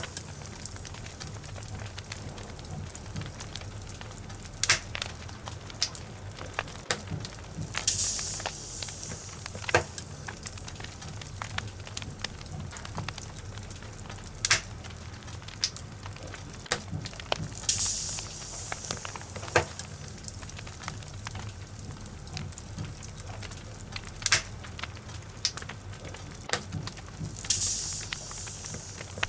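Wood logs burning in a fireplace: a steady low rumble of flames with frequent sharp crackles and pops. A soft hiss swells up every nine seconds or so.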